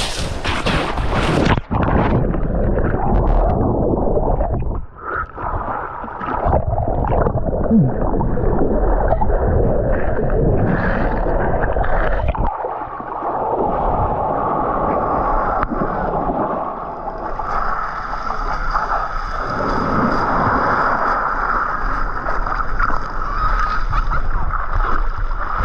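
Sea water sloshing and waves washing, with a continuous rumbling noise.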